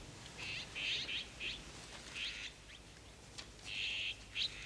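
Small birds chirping in short clusters of chirps, three times with pauses between.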